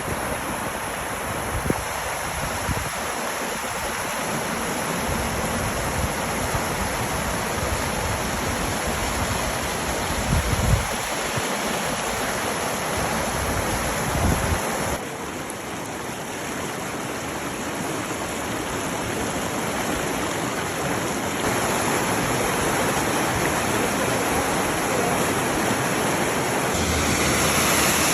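Rainwater runoff rushing down a flowing stream, a steady rush of water. Gusts of wind rumble on the microphone in the first half, and the sound changes abruptly about halfway and again near the end.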